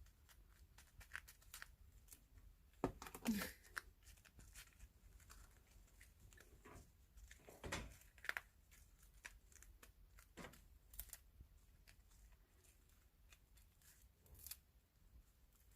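Kittens eating: faint scattered clicks and small crunches, louder about three seconds in and again about eight seconds in, against a quiet room.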